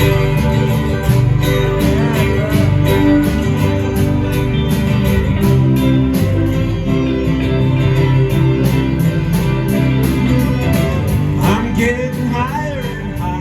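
Live band playing an instrumental passage: guitar over sustained bass notes and a steady drum beat.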